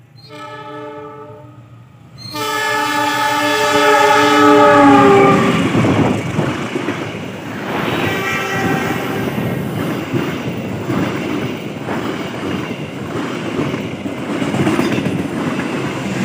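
Passenger train's diesel locomotive horn: a short blast, then a long blast whose pitch drops as the locomotive passes. This is the driver's horn signal (semboyan 35). Then the steady rumble and regular clickety-clack of the carriages' wheels running past over the rail joints.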